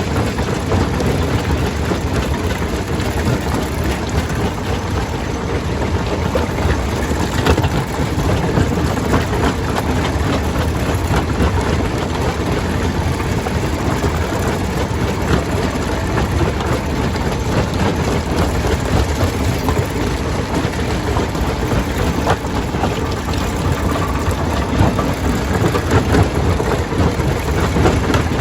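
Stone crusher running and breaking rock: a continuous heavy rumble with a dense clatter of stone, and a sharper knock about seven seconds in.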